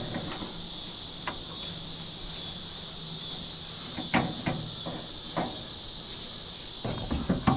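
Steady high-pitched insect chorus that cuts off suddenly near the end, with a few light knocks and clicks from handling the truck door's parts.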